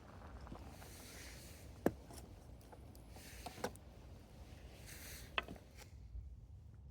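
Campfire crackling: three sharp pops a second or two apart over a soft rustle and low rumble.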